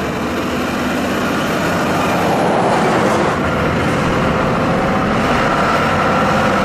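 Heavy truck engine running under load, growing louder over the first couple of seconds and then holding steady.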